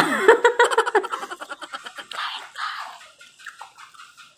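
A woman giggling: a quick run of high-pitched laughs in the first second, then a couple of breathy chuckles, fading to faint small sounds near the end.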